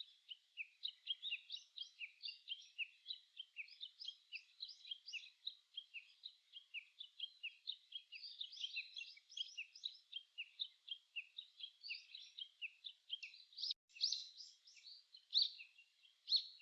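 Songbirds chirping: a dense, continuous chorus of short, high, quick notes, several birds overlapping, with a momentary dropout about 14 seconds in.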